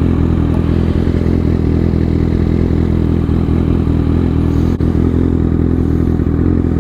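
Motorcycle engine idling steadily, a low even drone with no revving.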